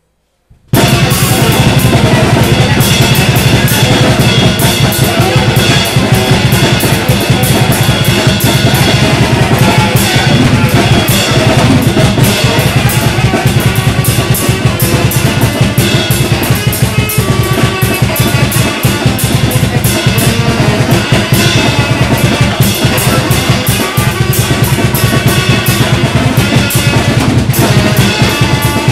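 Loud, dense free-improvised noise music led by a drum kit played in a fast, unbroken barrage of hits, starting abruptly about a second in.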